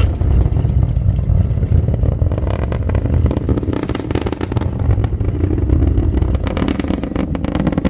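Distant rumble of an Atlas V rocket's first-stage RD-180 engine climbing away after liftoff: a loud, deep, continuous rumble with sharp crackling around the middle and again near the end.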